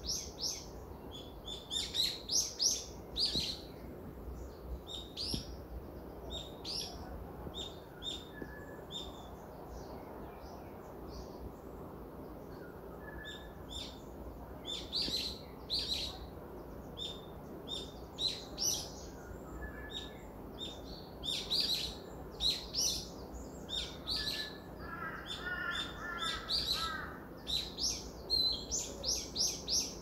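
Small songbirds chirping and twittering, with many short high chirps coming in clusters and thinning out for a few seconds in the middle. Late on there is a brief run of quick, lower repeated notes.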